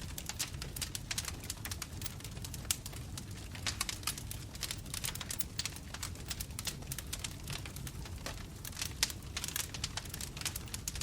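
Bonfire crackling: a dense, irregular run of sharp snaps and pops over a steady low rumble of burning flames.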